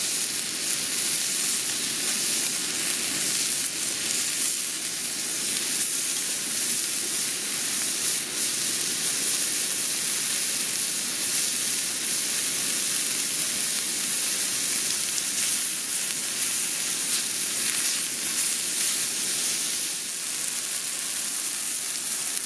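Food sizzling and frying in a pan over a campfire, a steady crackling hiss.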